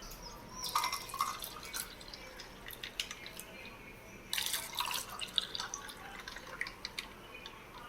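Liquid dripping and splashing into a glass, in two short spells about a second in and again near the middle, with small clicks between.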